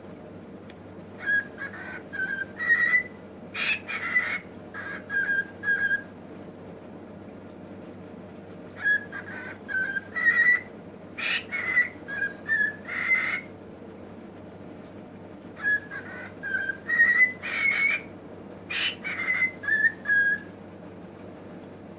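Pet bird whistling and calling loudly in three bouts of short, repeated whistled notes, some rising in pitch, with pauses of a few seconds between bouts.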